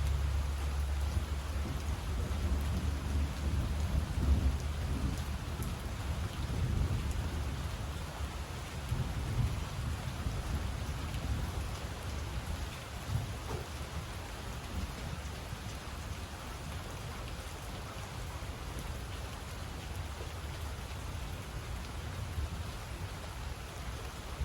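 Steady rain falling, with a low rumble of thunder that fades away over the first several seconds.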